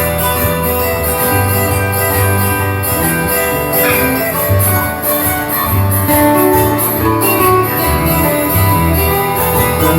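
Live band playing an instrumental break between sung verses: guitar-led music over steady bass notes, with no singing.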